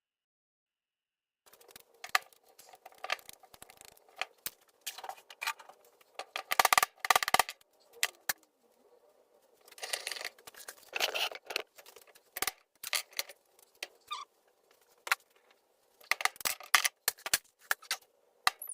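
Hand tools and small parts clicking, clinking and scraping in irregular clusters while a garage door opener motor is taken apart; the sound begins about a second and a half in.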